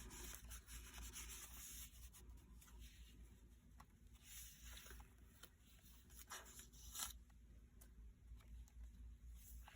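Faint rustling of paper pages being handled and turned in a handmade junk journal, with a few soft swishes, the loudest about seven seconds in.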